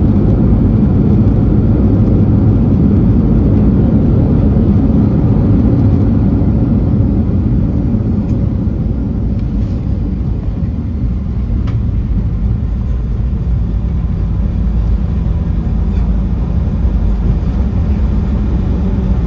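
Cabin noise of a Boeing 737-800 with CFM56-7B engines just after landing: a loud, steady low rumble of engines and airframe that eases slightly about seven seconds in, with a few faint clicks and rattles.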